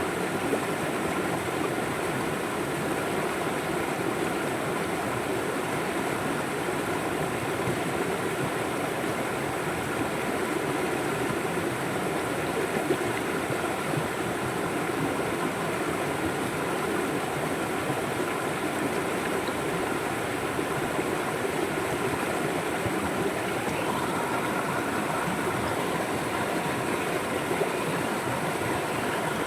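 A river flowing, with a steady, even rush of water and no distinct splashes.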